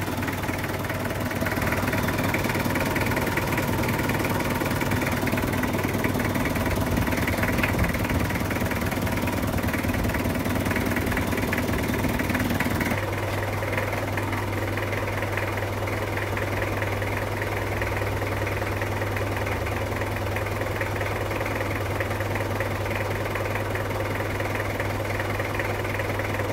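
Mitsubishi car engine idling steadily just after being started on a weak battery treated with crushed Bodrex tablets in its electrolyte. The tone of the running engine changes abruptly about halfway through.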